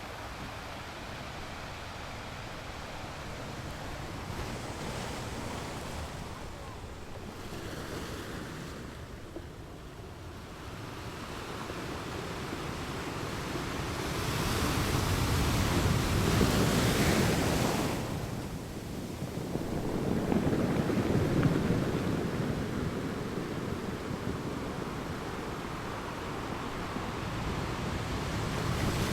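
Ocean waves breaking and washing onto a beach, the surf rising and falling. The biggest waves come about halfway through and again soon after.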